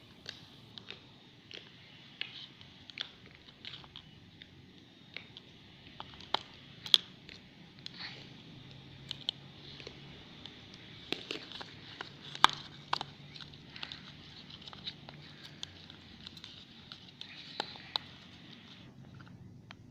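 Irregular small clicks, taps and crinkles of hands handling things close to the microphone, over a faint steady hiss, with two sharper clicks about seven and twelve and a half seconds in.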